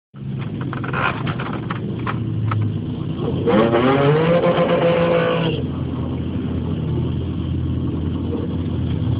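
Chevrolet Trailblazer SS 6.0-liter LS2 V8 through an aftermarket cat-back exhaust, running with a deep idle. About three and a half seconds in it is revved: the pitch climbs, holds for about two seconds, then falls suddenly back to idle.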